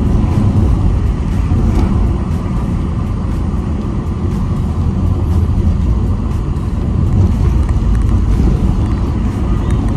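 Car on the move: a steady low road and engine rumble, with music playing underneath.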